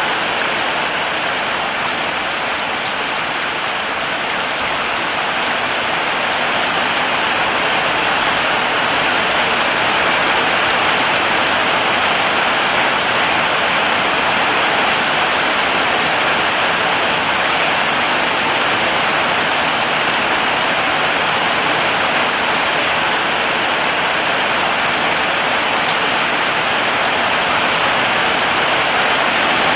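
Steady heavy rain, an even dense hiss of drops falling onto surfaces without let-up.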